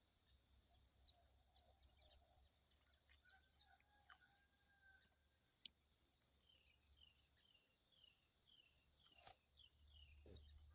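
Near silence with faint outdoor insect sounds: a steady high trill, and a quick run of short chirps in the second half.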